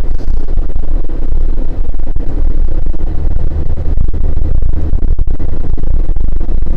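Vehicle driving, heard from inside: a loud steady low rumble with frequent short knocks and jolts.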